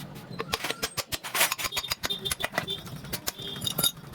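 Metal tools and engine parts clinking and knocking in quick, irregular strikes, some with a brief metallic ring, as the motorcycle engine is worked on.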